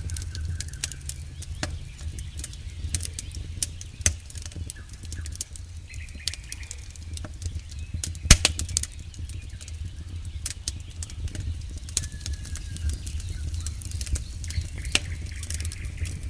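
Campfire crackling, with irregular sharp pops of burning wood, one louder pop a little past halfway, over a steady low rumble of the fire.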